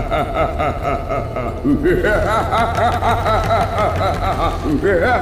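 A cartoon villain's exaggerated gloating laugh in fast 'ha-ha-ha' runs, each new run starting with an upward swoop, with a low steady hum underneath.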